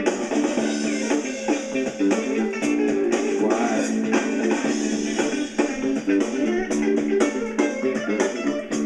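Blues-rock band recording: guitar over bass and a drum kit playing an instrumental passage with no vocals.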